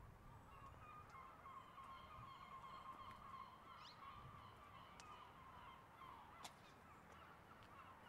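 Faint birds calling in a continuous chattering chorus, over a low background rumble, with a single sharp tick about six and a half seconds in.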